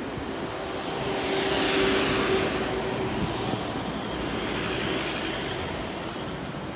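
London Northwestern Railway electric multiple unit running past close alongside the platform. Its wheel and running noise swells to a peak about two seconds in, with a steady whine, then eases off as the train moves away.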